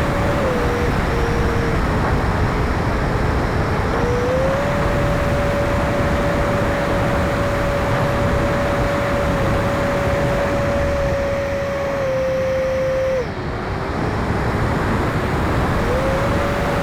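The 70 mm electric ducted fan of an E-flite F-16 Thunderbird RC jet whining in flight over a steady rush of air. Its pitch dips just after the start, rises about four seconds in, drops sharply about thirteen seconds in and climbs back near the end as the throttle is eased and reopened.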